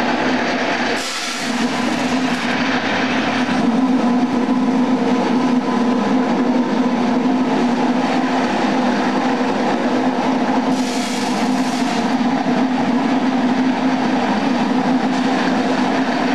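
A 750-watt electric-motor-driven dry-soybean hulling machine running, with a steady hum and a continuous mechanical rattle. A brighter hiss rises about a second in and again around eleven seconds.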